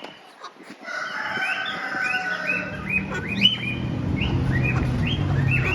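Many birds calling: a stream of short rising chirps, several a second, with a low steady hum underneath from about halfway in.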